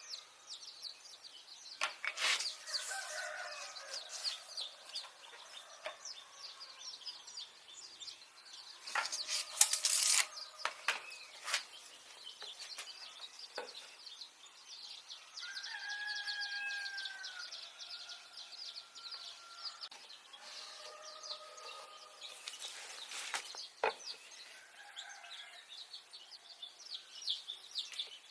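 Chickens clucking and calling, with one drawn-out call about halfway through, over a dense high chirping. Sharp knocks break in now and then, loudest about nine to ten seconds in.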